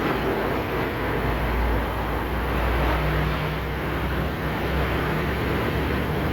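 Steady mechanical running noise with a low hum that shifts slightly in pitch.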